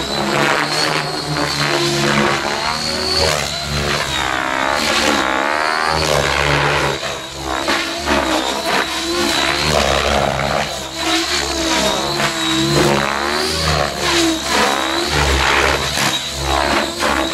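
Electric radio-controlled helicopter powered by an Align 750MX brushless motor, flying. There is a steady high motor whine that wavers slightly in pitch, over the rush of the rotor blades, which swells and fades every few seconds as the helicopter moves about.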